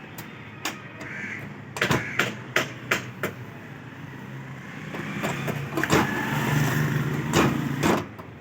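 A quick run of sharp knocks, then a motor vehicle passing by, its engine noise swelling and fading, with two more knocks near the end.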